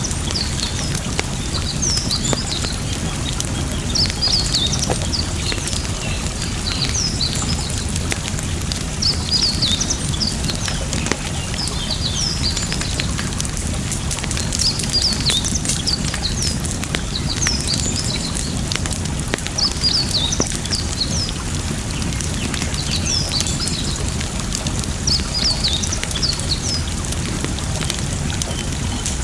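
Small birds chirping repeatedly over a steady rush of flowing water, with scattered sharp pops and crackles from a wood campfire.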